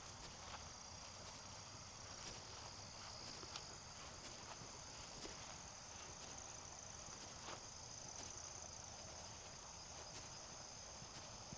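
Steady, high-pitched chorus of insects, with faint, irregular footsteps on the trail.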